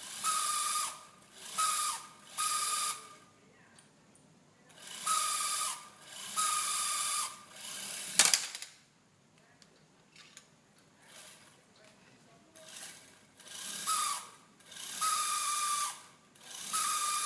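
Small electric motor running in short bursts of about a second, with a steady whine, stopping and starting about nine times; one sharp click about eight seconds in.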